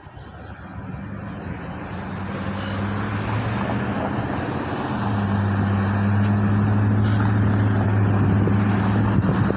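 A motor vehicle's engine hum, steady in pitch, growing louder over the first five seconds and then holding.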